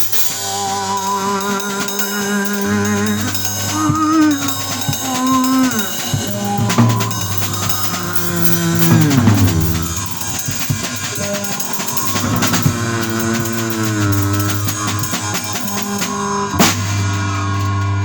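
Improvised duo of bass and drum kit: the bass plays wavering, sliding notes, with a long downward glide about halfway through, over drums and cymbals, with a sharp hit near the end.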